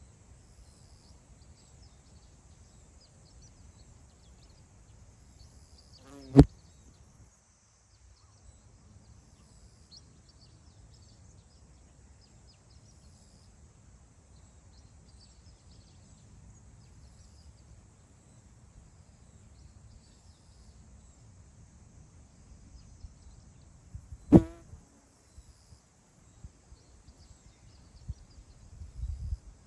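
Wind over open grassland, rumbling low on the microphone and gusting harder near the end, with a steady high-pitched hiss and faint wild bird calls. Two loud, sharp thumps come about 6 seconds and 24 seconds in.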